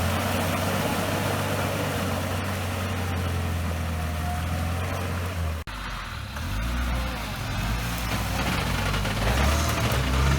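Off-road vehicle engine running steadily at low revs, then cutting off suddenly about halfway. An engine picks up again with revs shifting up and down.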